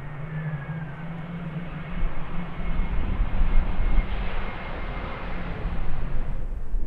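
Jet airliner's engines heard as the aircraft passes: steady engine noise with a thin high whine. A deep rumble builds from about two seconds in, and the upper part of the noise falls away near the end.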